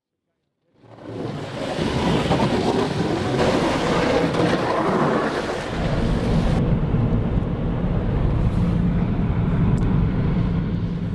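Vehicle engine running with a steady noisy rumble that fades in after a moment of silence; about six seconds in the sound changes abruptly to a steadier low hum.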